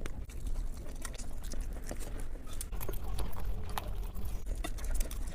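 Close-miked eating sounds: irregular wet clicks and smacks of chewing a mouthful of biryani, over a steady low rumble.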